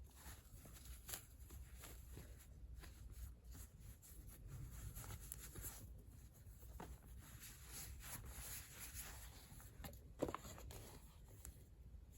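Faint handling sounds from unboxing: light rustling and small scattered taps and clicks as packaging and a small leather cardholder are handled, with one sharper tap about ten seconds in.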